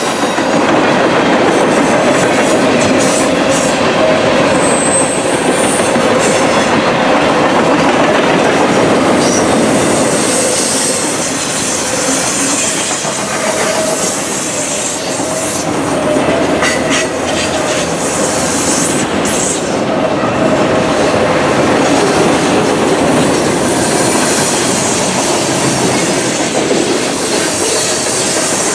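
Freight cars of a passing manifest train rolling by at close range: a steady rumble of steel wheels on rail, with clicks over rail joints and brief, thin, high-pitched wheel squeals here and there.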